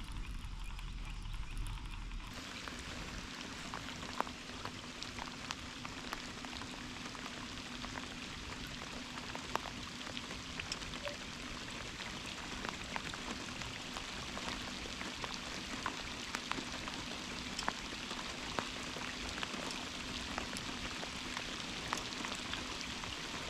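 Rain falling steadily, a continuous patter with many scattered individual drop ticks, heavier from about two seconds in. A faint steady hum lies underneath.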